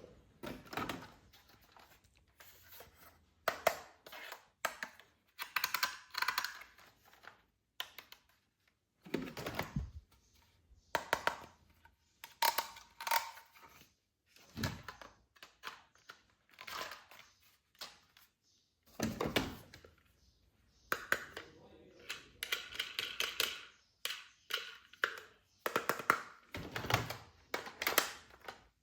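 Plastic toy gun parts and packaging being handled: irregular clicks, knocks and short rustles, with a few heavier thuds.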